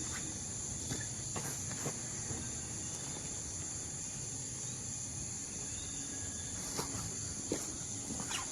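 Steady high-pitched chirring of insects, crickets or the like, with a few short clicks near the start and near the end.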